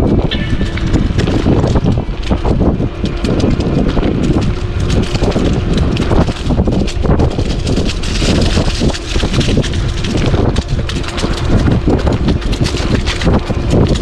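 Wind buffeting the microphone of a body-mounted action camera as an e-bike rolls along a leaf-strewn woodland trail, its tyres crackling and rattling over leaves and bumps, under a faint steady hum.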